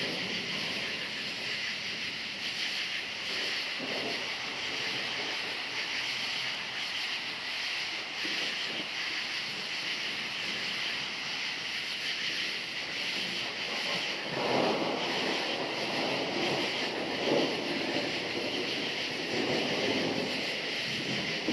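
Crickets chirping steadily in a dense chorus, with thunder rumbling in the distance from about two-thirds of the way in.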